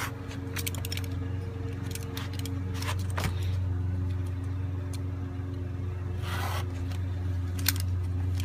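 Steady low hum, with a few short scrapes and clicks from covering material being handled and cut while a speaker panel is wrapped.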